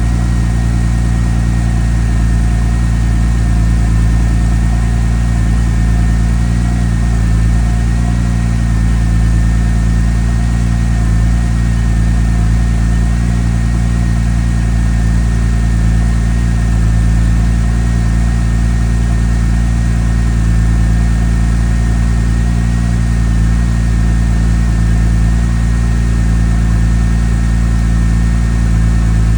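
Porsche 996's water-cooled flat-six engine idling steadily while it warms up after a cold start.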